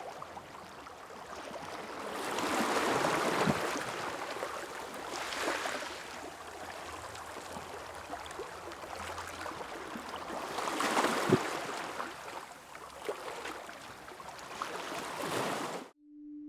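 Small waves washing onto a beach, a hissing wash that swells and falls back three times, with small clicks and splashes. It cuts off abruptly near the end, and a steady low ringing tone begins.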